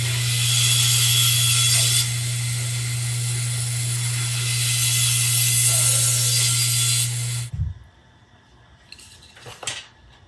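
A power tool runs steadily, a low hum under a loud hiss, then switches off about seven and a half seconds in. A few light clicks follow.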